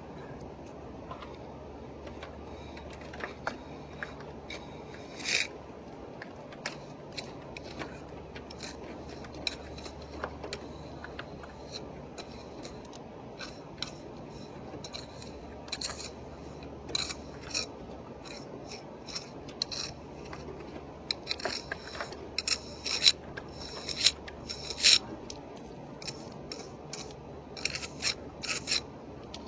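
Concave mortar jointer scraping along fresh mortar joints between bricks in short, irregular strokes, pressing the mortar in and shaping it. The strokes come thicker and louder about three-quarters of the way through.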